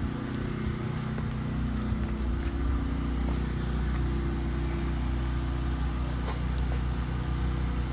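Steady low engine hum, like a motor idling.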